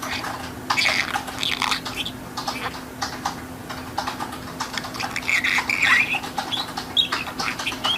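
Budgerigar chattering and warbling: a rapid run of chirps, clicks and short whistled notes, over a steady low hum.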